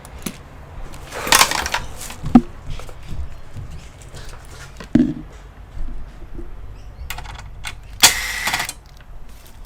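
Handling noises from taking apart an all-in-one computer: two brief scraping rustles, one a little over a second in and one near eight seconds in, with a few light knocks of parts or tools between them, over a steady low hum.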